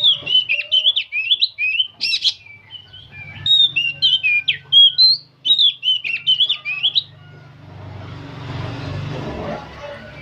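Oriental magpie-robin singing a fast, varied run of whistled and chattering notes, which stops about seven seconds in.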